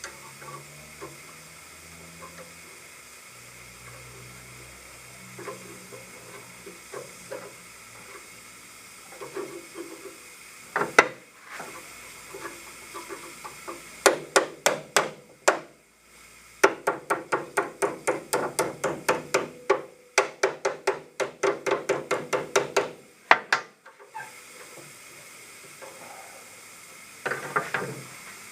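Hammer striking metal in a quick series of ringing blows, about three a second, with a short pause between two runs.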